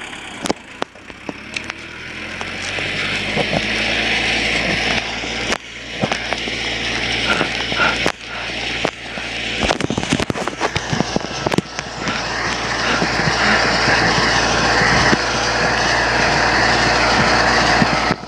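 Large tractor running as it pushes snow: a steady engine drone under a rushing, scraping noise that builds over the first few seconds, with scattered clicks and knocks.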